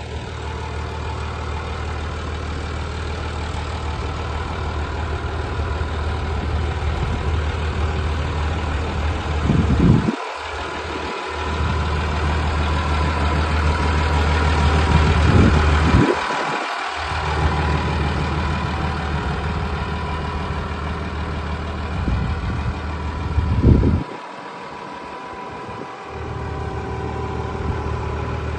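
Massey Ferguson 6170 tractor's diesel engine running steadily at idle. Three times the sound briefly swells, then the low rumble drops away suddenly for a second or two before returning.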